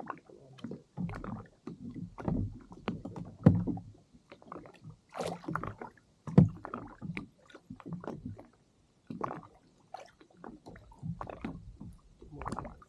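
Sea water sloshing and gurgling against a kayak's hull, with irregular knocks and splashes.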